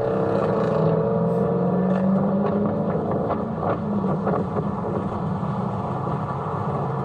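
Car engine revving and running: the revs climb just before and hold high for about two seconds, then ease to a steadier rumble.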